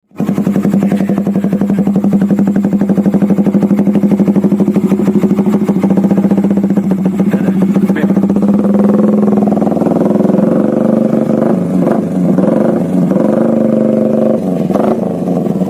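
Motorcycle engine running through a Daeng 4 Thai-style racing exhaust, a loud, rapid, even pulsing at idle. In the second half the note wavers slightly as the engine speed shifts a little.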